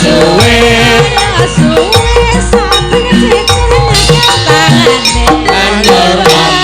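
Javanese gamelan music playing loud and steady: sustained metallophone tones and melodic lines over frequent hand-drum strokes.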